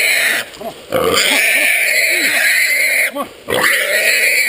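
A hog squealing loudly in long screams, two drawn-out squeals with short breaks between them.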